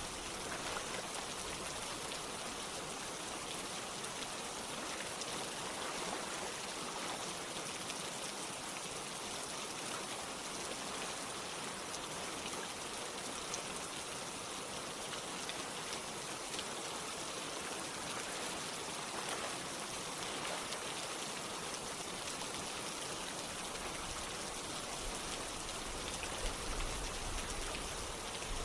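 Steady rain with running water: a dense patter of raindrops over a flowing stream, without a break.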